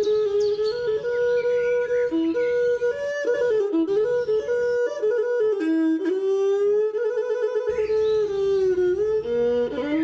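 Slow melody on a traditional Khmer wind instrument with a flute-like tone: held notes, stepwise turns and a wavering trill about seven seconds in. Short high bird chirps join near the end.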